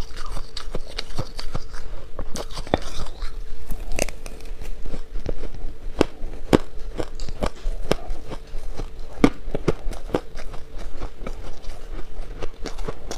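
Shaved ice being bitten and chewed close to the microphone: a steady run of irregular crunches and sharp cracks.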